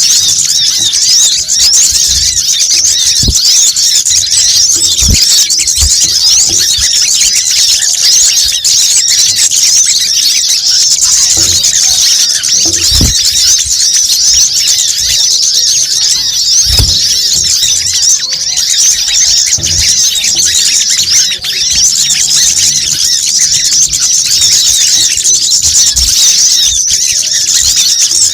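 Continuous, loud, high-pitched chattering of many small birds, the busy twittering of a bird-lure call recording. A few soft low thumps come through now and then.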